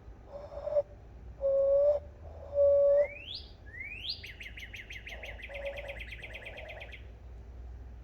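Hand-whistled bird-call imitation: short, steady, low hoots blown through cupped hands, three in the first three seconds, the last two loudest. Then two quick rising whistles and a quieter, higher, rapid trill lasting about three seconds, with softer hoots under it.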